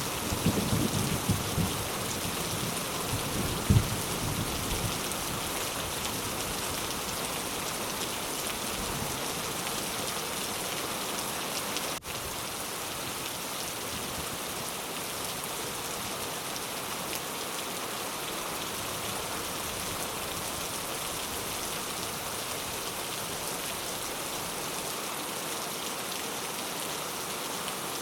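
Steady rain falling on surfaces, an even hiss of drops. A low rumble of thunder fades out in the first few seconds, with one sharp low crack near the end of it.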